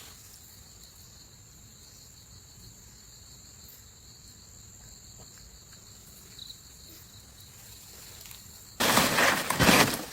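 Steady high-pitched insect chorus, with little else beneath it. Near the end a much louder noise across all pitches cuts in abruptly.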